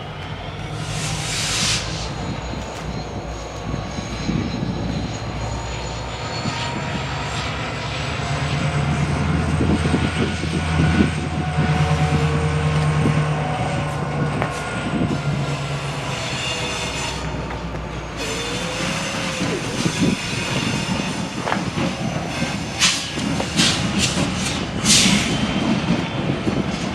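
Diesel-hauled train passing close by: a low locomotive engine drone that swells in the middle, thin high squeal from the steel wheels on the rails, and clicks of wheels over rail joints, coming thicker near the end.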